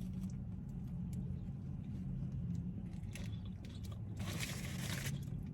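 A steady low hum inside a car cabin, with a few small clicks and a short crunching noise about four seconds in, typical of eating food in the car.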